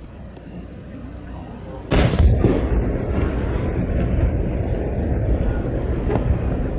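A large aerial firework shell bursts with a sudden sharp boom about two seconds in. A dense low rumble follows and carries on.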